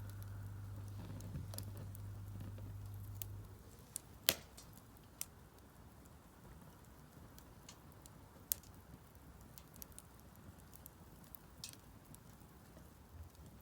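Firewood burning in a Solo Stove Campfire fire pit, crackling with scattered sharp pops, the loudest about four seconds in. A low steady hum cuts off about three and a half seconds in.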